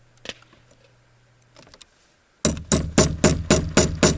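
Hammer blows, about four a second, driving a hinge's screw-bolt into a wooden gate door before it is tightened with a wrench. The run of about eight strikes starts a little over two seconds in, after a single click.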